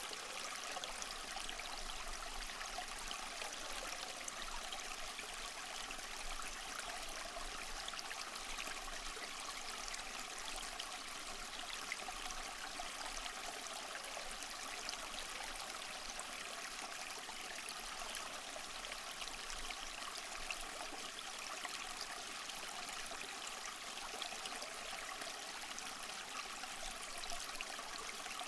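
Small waterfall splashing and trickling steadily over mossy rocks, an even, unbroken rush of water.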